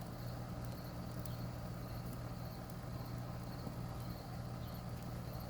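Quiet outdoor background: a steady low hum with faint insect chirping.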